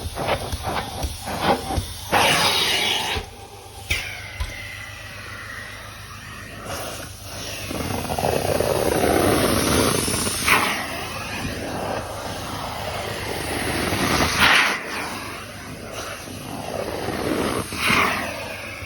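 Carpet extraction wand spraying and sucking up water in repeated strokes over the carpet. A steady loud hiss swells and cuts off at the end of each pass, every few seconds, after a run of quick short strokes at the start.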